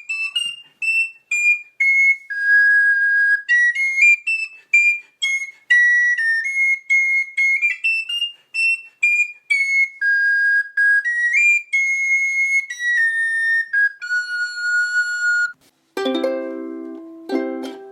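A high, flute-like wind instrument plays a slow melody of held notes, stepping up and down. About sixteen seconds in, it stops and a small plucked string instrument starts strumming chords.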